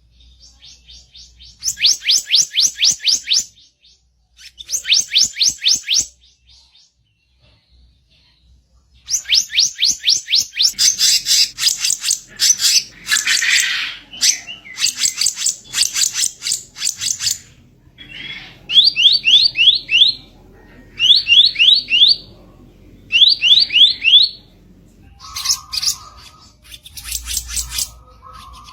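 Small songbird singing harsh, rapid chirping phrases: bursts of a second or two of quick high notes, a pause of a few seconds, then a long dense run of chirps, followed by short trills of rising notes repeated every couple of seconds.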